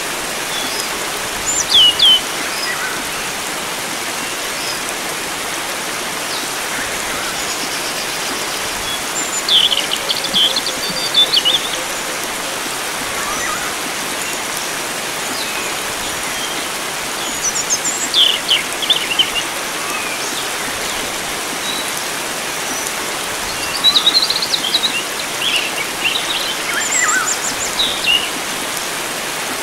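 Steady rush of flowing water with wild songbirds calling over it in short, high chirping phrases: once a couple of seconds in, again around ten and eighteen seconds, and a longer spell of calls near the end.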